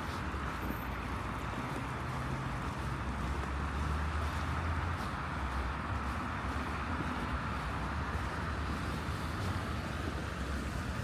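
Steady city traffic noise: car engines and tyres on snowy roads, a low rumble that swells about three to five seconds in as a vehicle passes.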